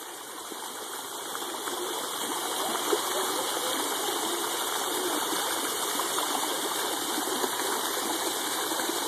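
Water jets of a splash pad spraying and splashing in a steady rushing hiss, growing louder over the first couple of seconds and then holding steady.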